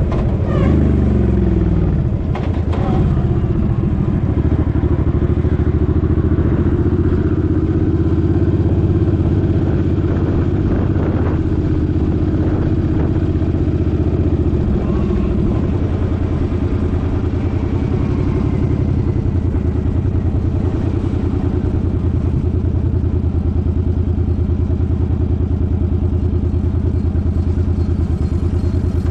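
Suzuki Boulevard M50's 805 cc V-twin engine running under the rider, its pitch falling at the start as it slows. It holds a steady note, then drops to a lower, steady beat about halfway through.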